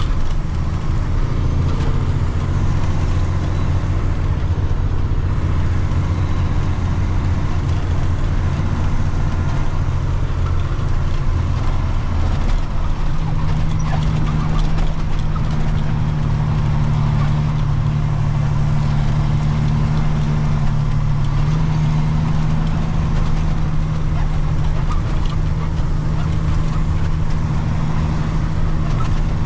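Water truck's engine running steadily under load while driving on a dirt site. Its note steps up about halfway through and again a little later.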